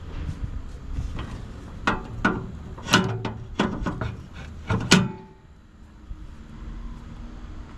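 Clicks and clanks of an excavator's side access panel being handled: a run of sharp knocks over the first five seconds, the loudest about three and five seconds in, then quieter.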